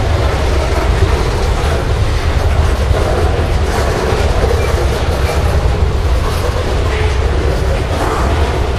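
CSX freight train rolling past at close range, a steady heavy rumble with wheels clicking over the rail joints.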